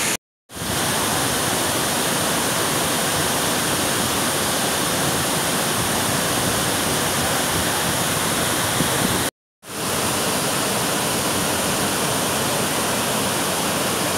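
Sarika Waterfall's water falling in a steady rush. The sound drops out abruptly for a fraction of a second twice, once right at the start and once about nine seconds in, then resumes.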